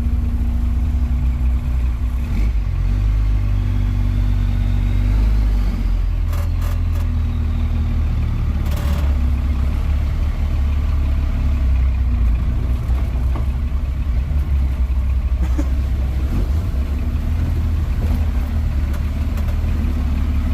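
Old pickup truck's engine running steadily at low speed while it crawls over a rough, rutted trail, with a few short knocks and rattles from the truck bouncing about six seconds in.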